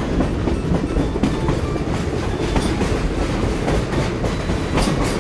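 Train sound effect: a steady rolling rumble of a train running on rails, with clickety-clack from the wheels.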